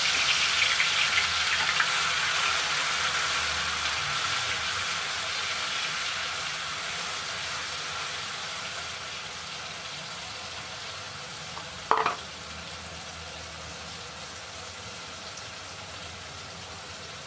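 A wet ground paste sizzling in hot oil in a non-stick frying pan, stirred with a spatula. The sizzle is loud at first and slowly dies down as the paste fries. One short knock comes about twelve seconds in.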